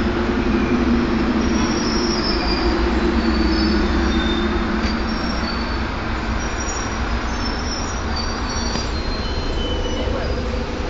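Subway train running on the rails: a steady loud rumble with short, high-pitched wheel squeals scattered through it.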